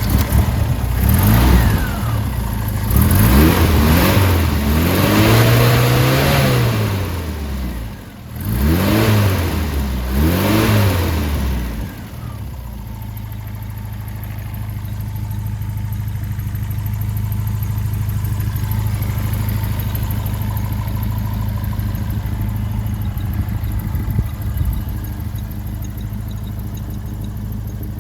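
1979 Morgan 4/4's four-cylinder engine being blipped: about five quick revs that rise and fall in the first twelve seconds, then settling to a steady idle.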